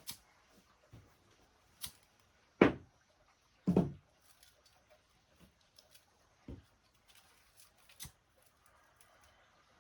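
Scattered light clicks and knocks, with two heavier knocks about a second apart in the first half, the loudest sounds here.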